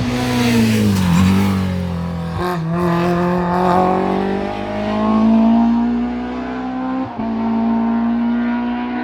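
Ford Cosworth competition car accelerating hard up a hillclimb, its engine revving up through the gears. The pitch drops sharply at shifts about a second in, at about two and a half seconds, and near seven seconds, and climbs again after each.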